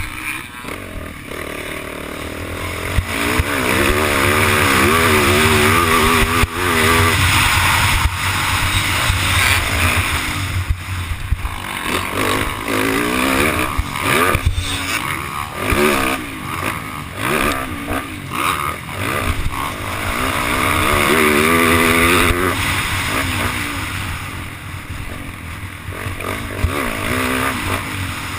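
Yamaha YZ450F's single-cylinder four-stroke engine being ridden hard, its pitch rising and falling over and over as the throttle is worked, with a steady rushing noise and occasional sharp knocks.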